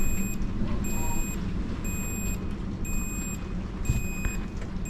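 Gale-force wind of 35 knots and more blowing as a loud, steady low rumble. Over it, an electronic alarm beeps about once a second, five beeps of about half a second each.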